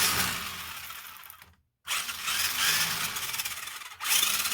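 Electric motor and gearbox of a Tamiya Sonic Fighter RC buggy whirring in short throttle bursts during a bench test after restoration. Each burst starts loud and fades before cutting off suddenly, one ending about a second and a half in, the next running to about four seconds in, and a third starting just before the end.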